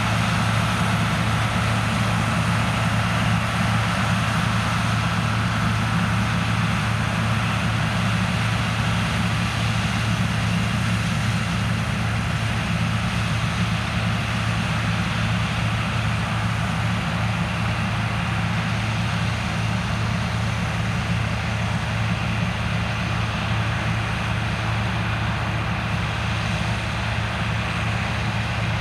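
Heavy farm machinery diesel engines running steadily during corn harvest, with a constant low hum and no change in pace.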